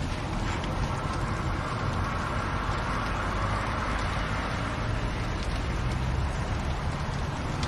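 Fire crackling in a fireplace: a steady hiss with scattered faint pops.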